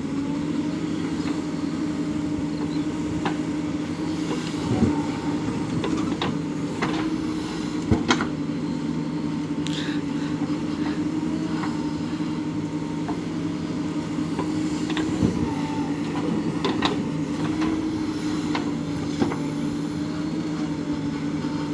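Diesel engine of a JCB 3DX backhoe loader running steadily under work, with a handful of short sharp knocks or clanks over it.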